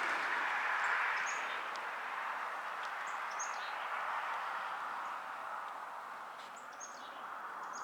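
Small songbirds give a few short, high chirps over a steady rushing of stream water, which grows a little fainter in the second half.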